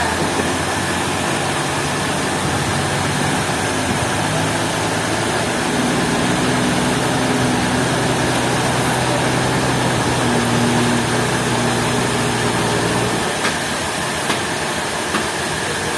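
An engine runs steadily under a constant hiss, its low hum dropping away about thirteen seconds in, with a few faint ticks near the end.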